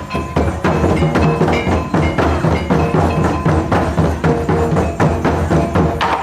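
Taiko drum ensemble playing live in a fast, dense rhythm: deep drum beats mixed with sharp wooden clicks and short ringing metallic tones.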